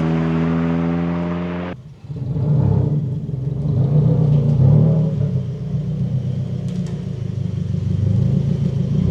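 2024 Subaru WRX's turbocharged flat-four through a Remark 3.5-inch stainless double-walled axle-back exhaust. A steady held engine note cuts off suddenly about two seconds in, followed by a low, uneven exhaust rumble that rises and falls.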